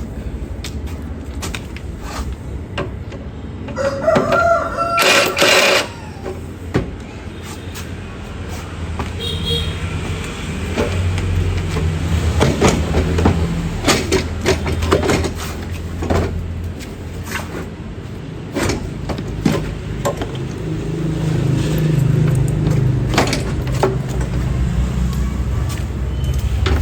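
A rooster crows once, about four seconds in, in one call of about two seconds. Around it are scattered sharp knocks and a low rumble.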